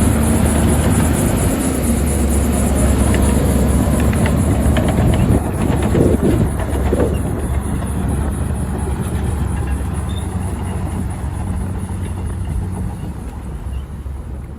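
Heavy diesel earthmoving machine running under load, a steady engine drone, with a run of short knocks and clanks about four to seven seconds in; it slowly gets quieter toward the end.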